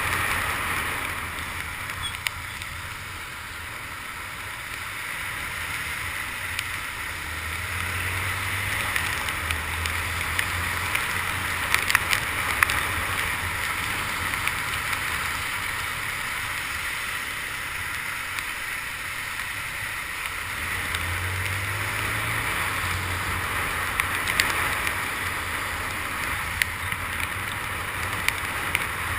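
Honda CG 150 Titan's single-cylinder four-stroke engine running on the move under a steady hiss of rain and tyre spray on a wet road. The engine hum swells twice, about a third of the way in and again about two-thirds in, with a few faint clicks.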